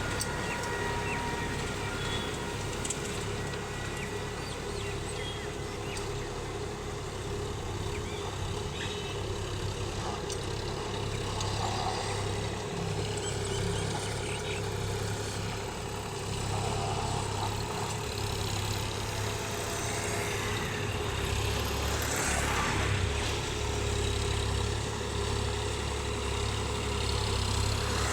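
Sonalika tractor's diesel engine running steadily with a low rumble.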